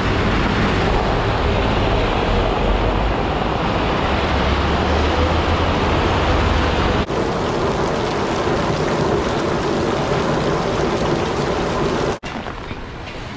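Heavy rain pouring down in a steady loud rush, with gusts of wind rumbling on the microphone. The level drops abruptly about twelve seconds in, to a lighter rain.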